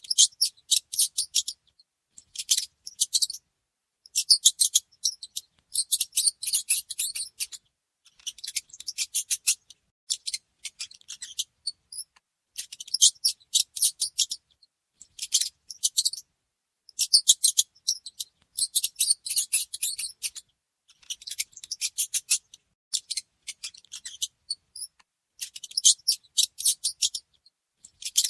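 Mouse sounds: rapid high-pitched clicking in bursts of a second or so, over and over, with silent gaps between them.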